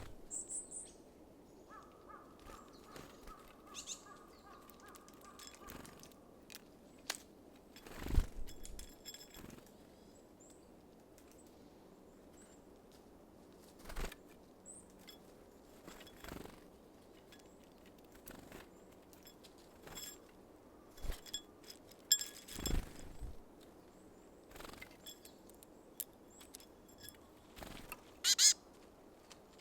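Small wild birds at a feeder: scattered knocks and taps from birds landing and pecking at seed, with the loudest knocks about 8, 22 and 28 seconds in, and a few short high chirps. A faint steady tone runs for a few seconds near the start.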